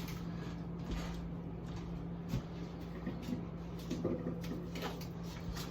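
Food packages being handled and set down: a few faint knocks and rustles over a steady low hum.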